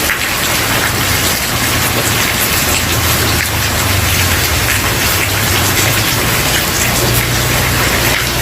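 Steady rain falling on a wooden porch: a dense, even patter of drops over a low, steady rumble.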